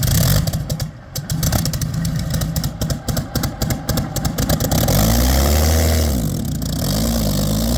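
Rolls-Royce Merlin V12 with straight-pipe exhausts running loud and uneven, with a rapid ragged crackle of firing pulses. About five seconds in it smooths out, and the revs rise and fall twice.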